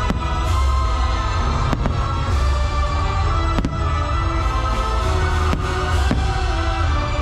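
Fireworks show soundtrack music with a heavy bass pulse, played loud over park speakers, with sharp firework bangs about every two seconds.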